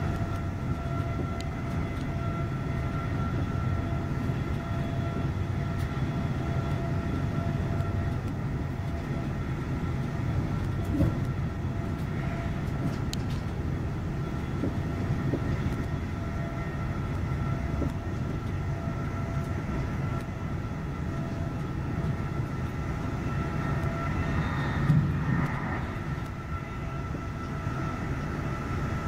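A passenger train running along the line, heard from inside the carriage: a steady rumble with a faint steady high-pitched tone over it, and a brief louder passage near the end.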